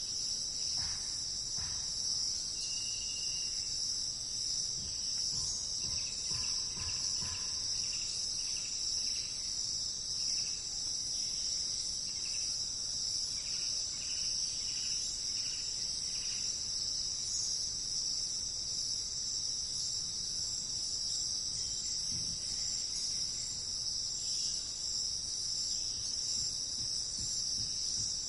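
Steady, high-pitched chorus of insects such as crickets, with a bird's short chirps sounding faintly in a run through the middle.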